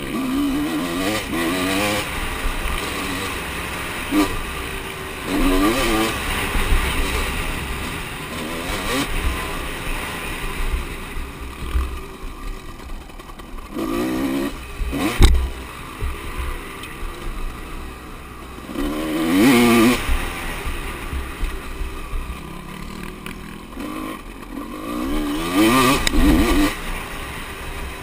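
Motocross bikes revving and passing several times, their engine note rising and falling with each pass. A single sharp knock comes about halfway through.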